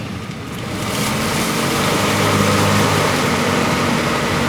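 A 4x4 truck's engine pulling hard in a mud pit. About a second in it gets louder and a steady rushing noise joins it, typical of tyres churning through mud and water.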